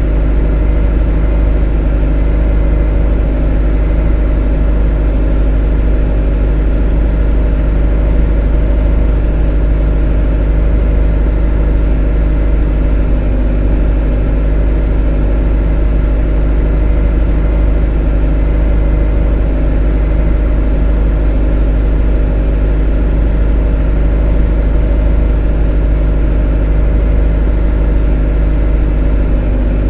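A motor running steadily and unchanging, with a deep hum and a drone of several steady tones above it.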